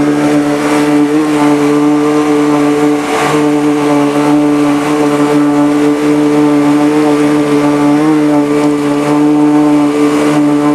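Engine of a home-built amphibious Subaru car-boat running steadily as it motors across the water: a loud, even drone that holds one pitch, wavering slightly about eight seconds in.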